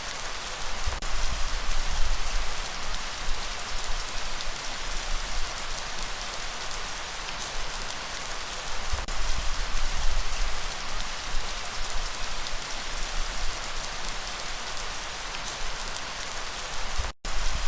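Steady rain falling: an even hiss with scattered drop ticks over a low, wavering rumble. It is broken by a brief dropout to silence near the end.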